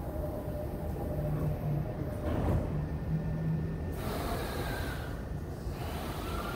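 JR E231-series electric commuter train starting to pull away from the platform: a steady low rumble with short humming motor tones, then a hiss that sets in suddenly about four seconds in and faint rising whines as it gathers speed.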